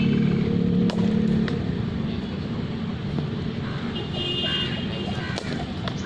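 A motor vehicle's engine running nearby, a steady low drone that fades after about a second and a half. Two sharp knocks come around one second in.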